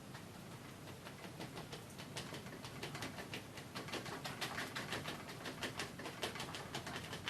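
Oil-paint brush dabbing and tapping on a stretched canvas: a quick run of soft taps and strokes, several a second.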